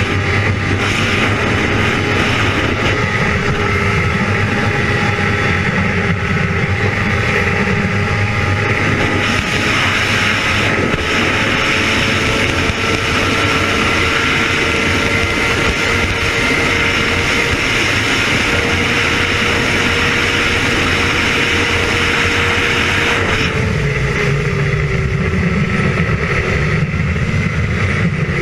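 Sport motorcycle engine running at a steady high pitch at speed over a broad rushing noise. Toward the end the pitch eases down slightly and the low rumble grows.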